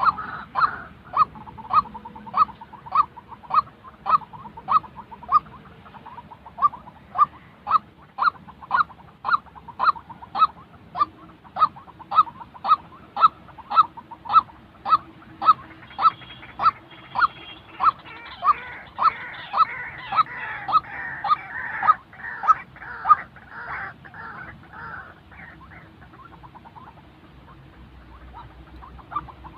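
White-breasted waterhen calling: a long series of repeated single notes, about two a second, with a rougher chatter joining in about two-thirds of the way through. The notes fade out near the end.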